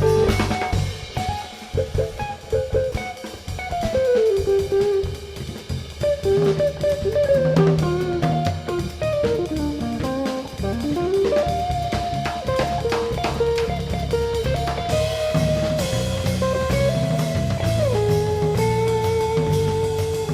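Guitar, cello and drum kit trio playing live instrumental music: a single melody line with a rising slide about ten seconds in, over low sustained notes and steady drums.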